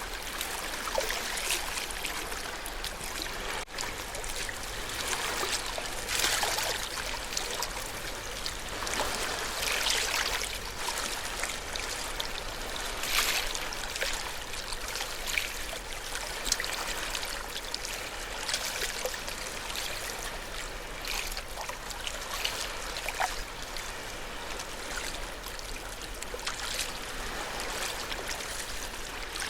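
Ocean waves washing in: a continuous watery hiss with irregular surges every one to three seconds as the waves break and wash.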